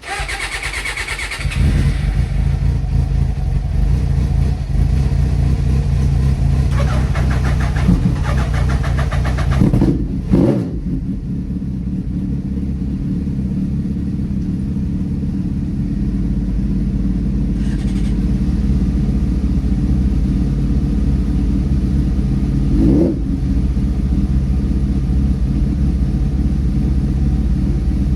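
A motorcycle engine starting up, catching after about a second and a half, then idling steadily. The throttle is blipped around eight and ten seconds in, and once more near the end.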